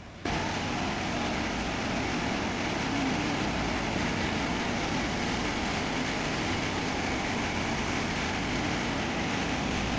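Water rushing out through an opened dam gate: a steady, loud, noisy rush that cuts in abruptly just after the start.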